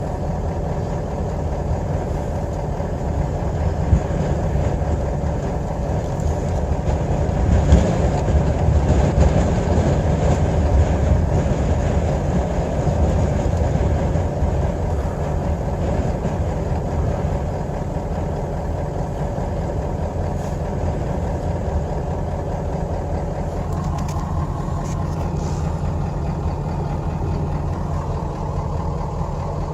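A vehicle engine running steadily, a little louder for a few seconds near the middle.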